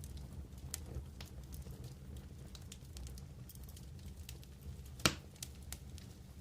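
Wood campfire crackling, with scattered small pops and one sharp louder pop about five seconds in, over a low steady rumble.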